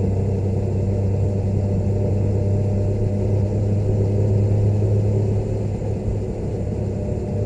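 Motorcycle engine running at a steady pitch while riding, with a slight dip in loudness about six seconds in.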